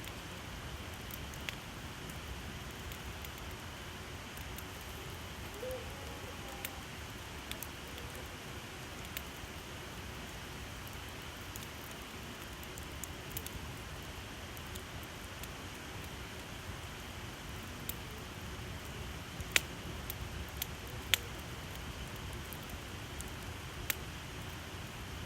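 Wood campfire burning with a steady crackling hiss and a few sharp pops, two louder ones about three quarters of the way through.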